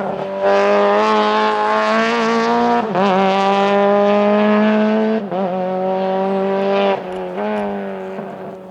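Renault Twingo R2 rally car's engine held hard at high revs under full attack, with brief dips and recoveries in pitch about three, five and seven seconds in as the driver lifts or shifts, then fading as the car moves away.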